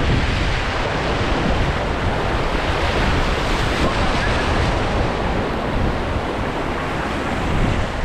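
Rushing river water around a raft, a steady roar of flowing water, with wind rumbling on the microphone.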